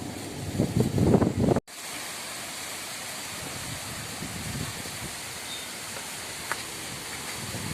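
Strong gusty wind: low buffeting gusts on the microphone for the first second and a half, a sudden brief dropout, then a steady rushing hiss of the wind.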